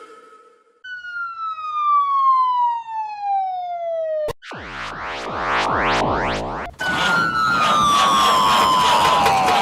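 Police siren sound effects cut one after another: a single tone sliding down in pitch, broken off by a click, then a fast siren sweeping up and down a few times a second, then another tone falling in pitch.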